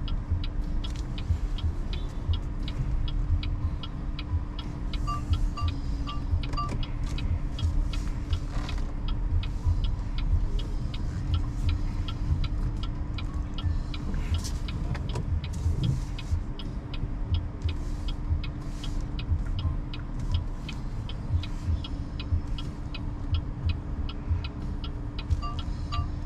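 Road noise and low rumble inside a BYD Seagull electric car's cabin while driving, with a steady hum and a fast, regular ticking. Short repeated beeps come about five seconds in and again near the end.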